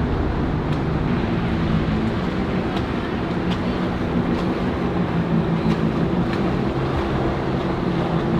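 A boat's engine running steadily at low speed, a constant low hum with broad wash noise over it.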